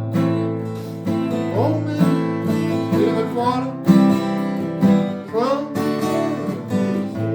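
Acoustic guitars playing an instrumental passage of a song, with a melody line sliding up and down between notes several times.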